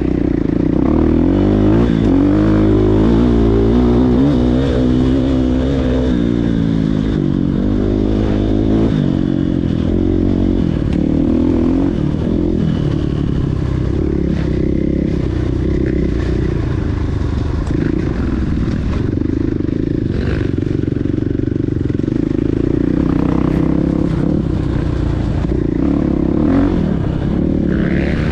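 Motocross bike engines revving, their pitch rising and falling over the first ten seconds or so, then running on as a steadier engine drone.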